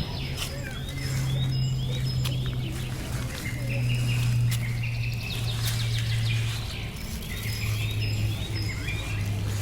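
Small birds chirping repeatedly in short quick calls, over a loud low steady hum that shifts pitch slightly every second or two.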